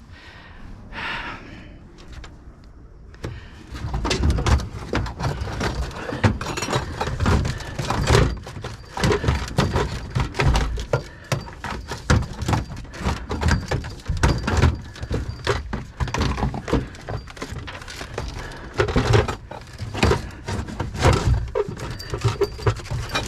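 Salvaged items being handled and set down: a long run of knocks, clunks and thumps that starts about three and a half seconds in, after a quieter opening.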